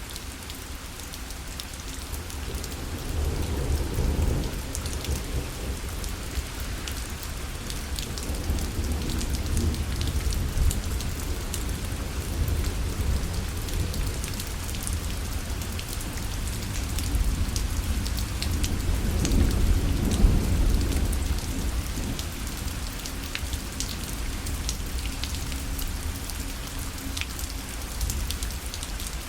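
Steady rain falling on a parasol, with many separate drop hits. Two low rumbles of thunder swell and fade, one a few seconds in and a longer one past the middle.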